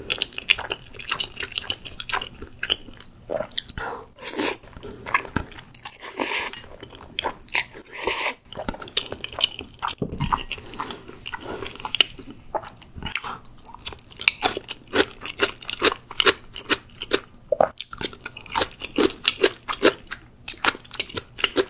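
Close-miked mouth sounds of eating creamy rosé spaghetti: noodles slurped in with a few longer wet gushes in the first half, then steady wet chewing with many small smacks and clicks.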